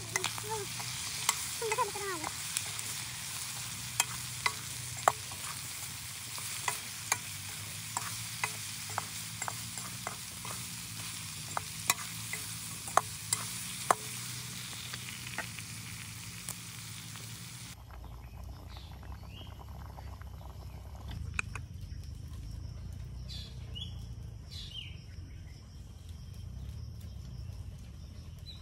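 Pork curry with potatoes sizzling in a metal kadai over a wood fire, stirred with a metal ladle that clinks sharply and irregularly against the pan through the first half. About 18 seconds in the sizzle cuts off, giving way to a quieter outdoor ambience with scattered bird chirps.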